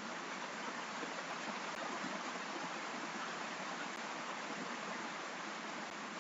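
Steady rain noise: an even, unbroken hiss.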